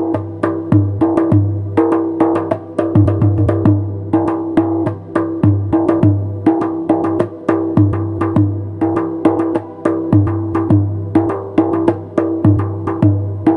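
Darbuka (goblet drum) played in a fast, continuous rhythm: crisp high finger strokes between deep, booming low strokes that recur about every second.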